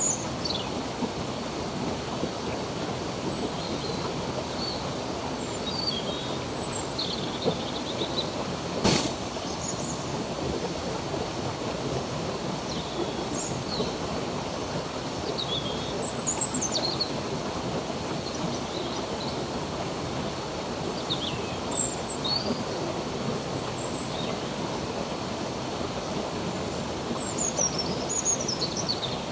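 Steady rush of flowing stream water, with small birds chirping on and off above it in short high calls and quick glides. A single sharp click comes about nine seconds in.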